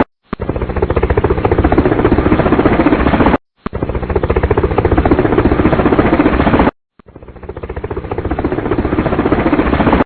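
Helicopter rotor blades chopping in a fast, steady pulse, broken by brief silent cuts about every three and a half seconds after which the sound fades back in.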